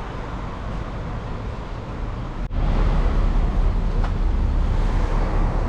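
City street ambience with vehicle traffic. About halfway through it drops out for an instant and comes back louder, with a heavier low rumble.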